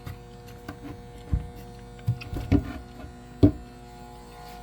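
A board being set down and knocked into place on top of a battery bank: four dull knocks, the last about three and a half seconds in and the loudest, over a steady electrical hum.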